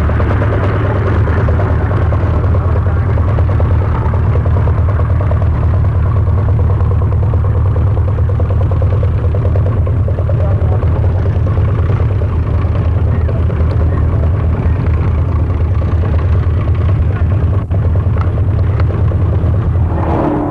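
An engine running steadily, a low, even hum with a fast, dense beat, changing abruptly right at the end.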